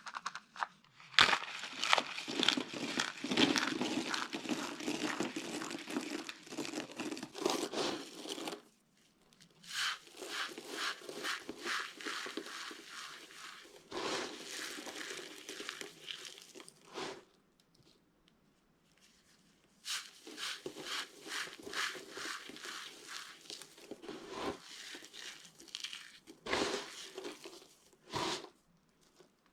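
Dry soap being crushed, crackling and crunching in four long bursts with brief pauses between them.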